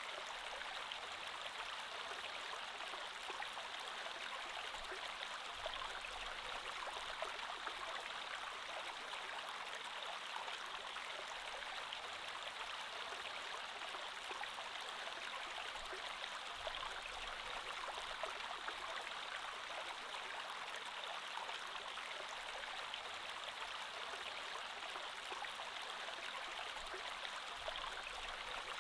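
Creek water flowing steadily, an even, unbroken rush of running water.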